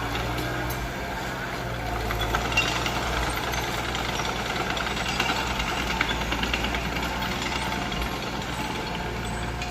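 Mitsubishi BD2F crawler bulldozer's diesel engine running steadily, with a continuous rapid metallic clatter over the engine drone.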